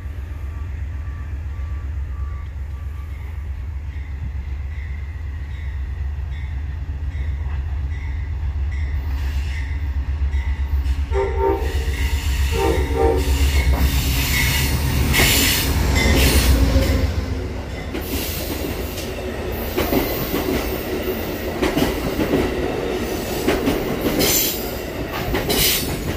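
Amtrak Downeaster passenger train arriving behind a GE Genesis diesel locomotive: the engine's low rumble grows louder as it approaches, with two short horn blasts shortly before the locomotive passes, loudest as it goes by. The cars then roll past with squealing wheels and brakes as the train slows for the station.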